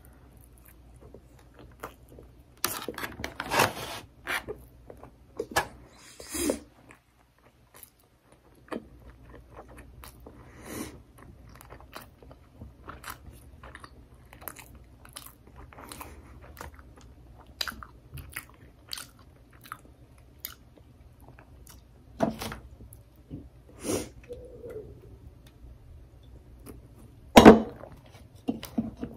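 Close-up chewing and biting of sushi rolls, with moist mouth sounds and crunches. A few louder knocks stand out, the loudest near the end.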